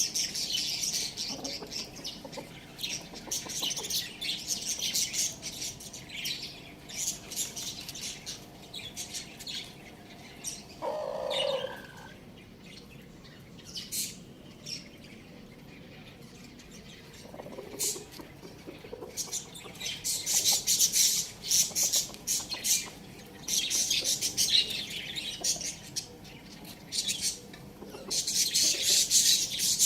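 Small birds chirping and chattering in dense, high-pitched bursts, with a quieter lull in the middle and a short, lower call from a larger bird about eleven seconds in.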